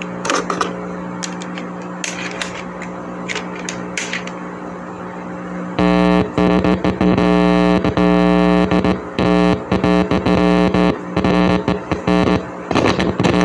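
Experimental electronic noise music: a steady synthesizer drone with scattered crackles, which turns abruptly much louder and denser about six seconds in and then runs on with choppy, stuttering cuts.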